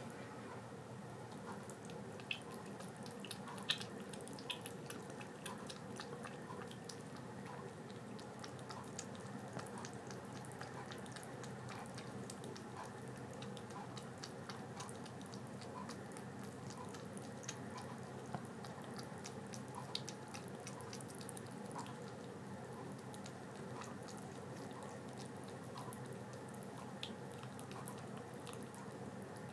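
A kitten suckling milk from a baby bottle: many small wet clicks and smacks, irregular and spread throughout, over a steady low background hum.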